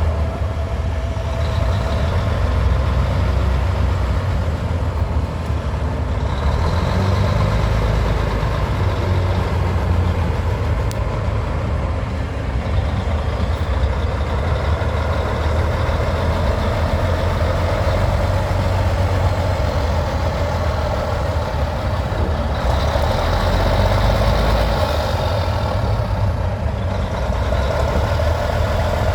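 A vehicle engine running steadily at idle, a continuous low rumble.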